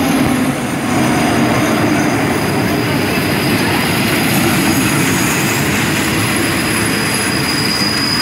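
Diesel-hauled passenger train rolling past close by: the locomotive's engine hum at first, then the carriages' wheels running over the rails. A thin, high wheel squeal runs through and grows louder near the end.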